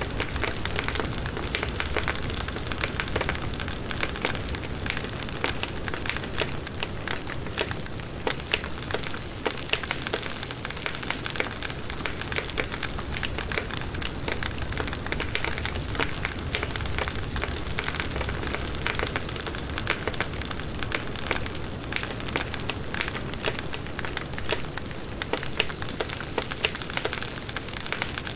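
Firewood burning in a campfire, with a dense, steady run of crackles and pops.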